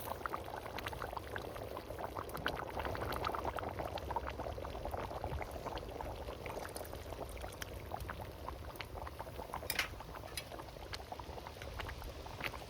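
A pot of stew bubbling, with a steady patter of small pops and a few sharper clicks.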